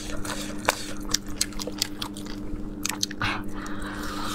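Close-up biting and chewing on crisp, air-fried spiced chicken bones: irregular sharp crunches and clicks as meat and gristle are gnawed off the bone, over a steady low hum.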